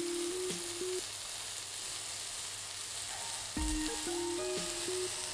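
Vegetables frying in a stainless steel pan, a steady sizzling hiss.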